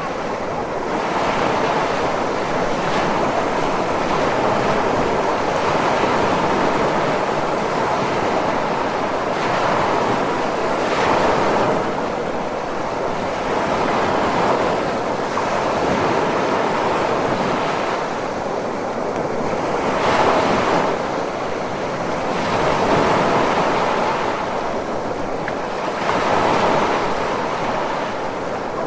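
Ocean surf: a continuous rush of waves breaking and washing in, swelling and easing every few seconds.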